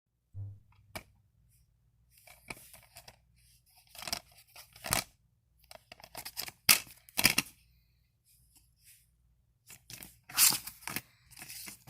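Handling noises: irregular tearing and rustling with several sharp clicks, loudest about seven and ten seconds in.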